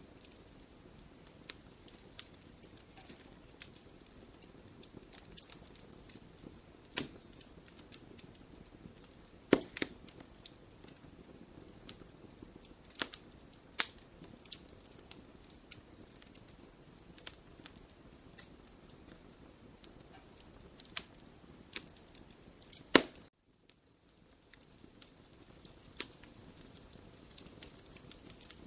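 Wood fire in a fireplace crackling: a soft, steady rush of flames under scattered sharp pops of burning wood, a few of them loud. Just after a loud pop near the end, the background hush cuts out for about a second and then returns.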